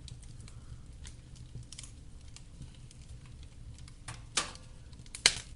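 Wood fire burning in a fireplace: a low steady rumble with scattered small crackles, and two loud sharp snaps near the end.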